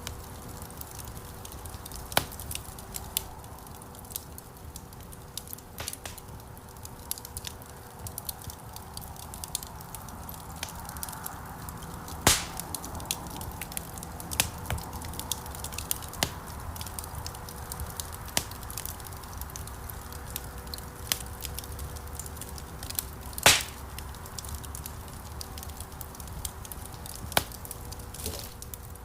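Wood fire crackling: scattered sharp pops and snaps over a low, steady rush of burning, with two louder pops, one near the middle and one about three-quarters through.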